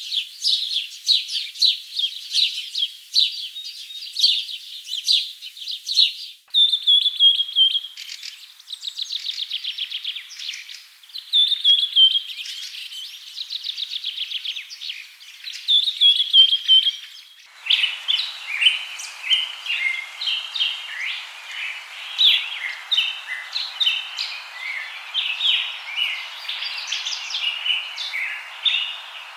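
Many birds chirping and calling, a dense run of short high notes. About six seconds in the sound changes abruptly to repeated fast trills that drop slightly in pitch at their ends. Around seventeen seconds it changes again to scattered chirps over a steady hiss.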